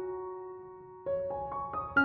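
Soft background piano music: a held note fades out, then a new phrase of notes starts about halfway through.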